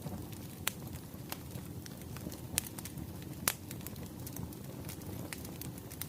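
Wood fire crackling: a steady low rumble of burning firewood with a scattering of sharp pops and snaps, the loudest about three and a half seconds in.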